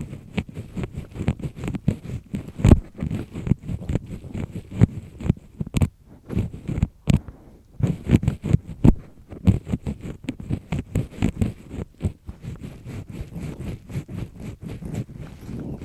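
Double-disc ear pick scraping firmly inside an ear, a dense run of quick, irregular scratches and crackles with a short pause about seven seconds in.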